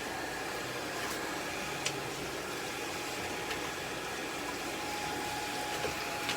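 Hair dryer blowing steadily while a wet, long-haired cat is dried, an even rush of air with a faint whine from the dryer's motor.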